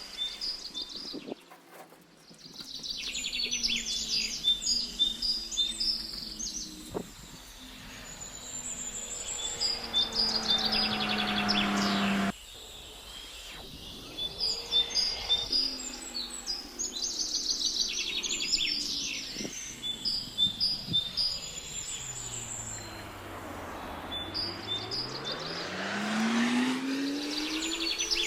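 Small birds chirping in repeated quick, high phrases, with passing vehicles whose engine pitch slides down and then rises again, at about a third of the way through and again near the end.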